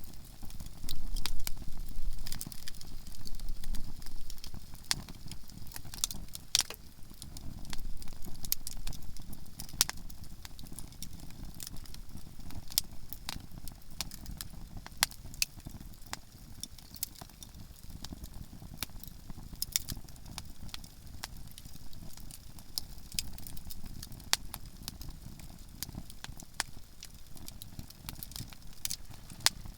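Conifer (softwood) firewood burning in a campfire, crackling with frequent sharp pops at irregular intervals over a low, steady rumble.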